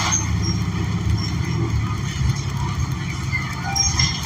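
Cabin ride noise of a 2014 New Flyer XN40 natural-gas bus under way: the Cummins Westport L9N engine and road rumble run steadily, with body rattles and clicks on top. A short high-pitched squeal starts near the end.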